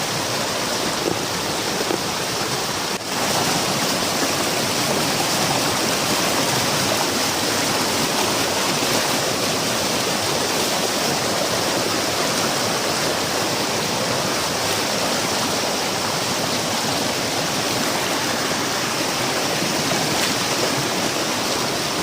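Fast-flowing stream water rushing steadily over rocks, close to the microphone.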